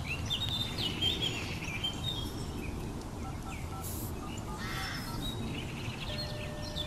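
Small birds chirping in short high calls, bunched in the first couple of seconds and again near the end, over a steady low outdoor background noise.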